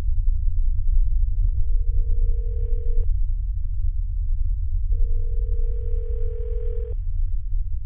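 A phone ringing with a plain steady tone: two rings of about two seconds each, two seconds apart, the first fading in, and a third beginning near the end. Under it runs a steady low rumble.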